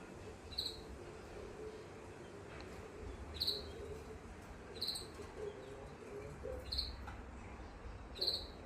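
Canary giving short single chirps, five in all, spaced a second or two apart, rather than a continuous song.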